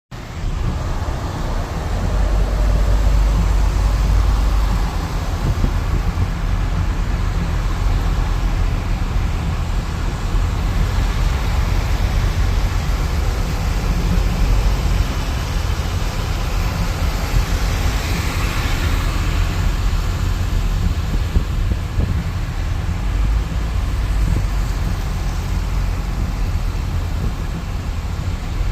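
Steady city traffic noise with a heavy low rumble of wind on the microphone; a swell of hiss rises and fades about eighteen seconds in.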